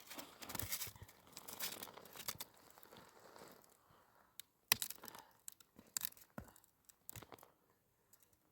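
Irregular crunching and crackling handling noises, dense at first, then thinning out to a few separate sharp clicks from about halfway through.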